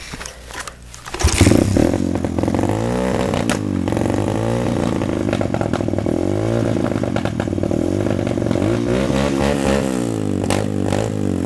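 Pit bike engine catching about a second in, then held at high revs with the throttle blipped up and down in swells to keep it running. The engine is cold and won't idle, so it has to be revved until it warms up.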